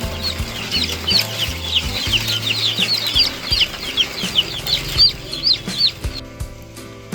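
A flock of chicks peeping: many rapid, high-pitched overlapping cheeps that stop about six seconds in. Background music with steady low notes plays underneath.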